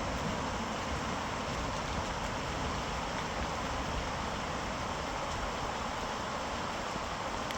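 Heavy rain falling steadily with wind, a continuous even hiss over a low rumble.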